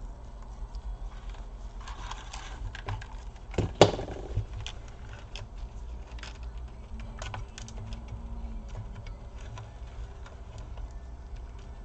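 Scattered small clicks and taps of hands handling a laptop's plastic parts and cable connectors during reassembly, with one louder knock about four seconds in.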